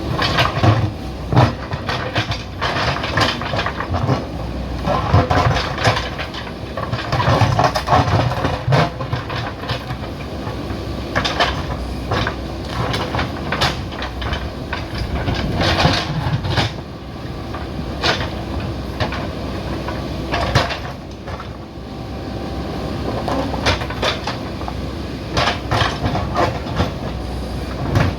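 JCB backhoe loader working, its diesel engine running steadily under load, with frequent metallic knocks and clanks throughout.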